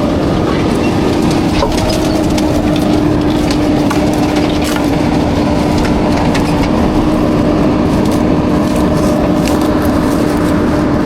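Garbage truck working with a steady hydraulic whine over a loud rumble, with scattered sharp cracks and snaps throughout.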